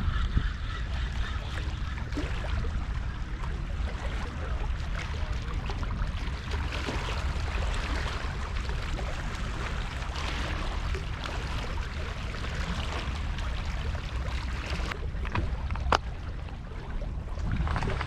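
Wind rumbling on the microphone over a steady wash of water noise from waves and rain. There is a single sharp click near the end.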